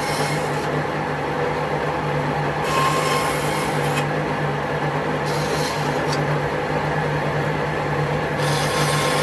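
A woodworking power tool running steadily with a low hum, with a hissing burst about every two to three seconds.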